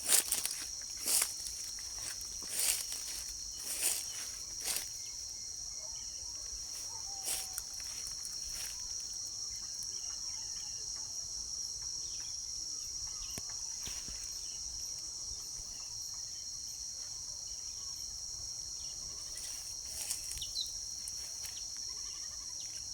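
Steady, high-pitched chorus of insects such as crickets shrilling without a break. Several short sharp clicks stand out in the first five seconds, with a couple more near the end.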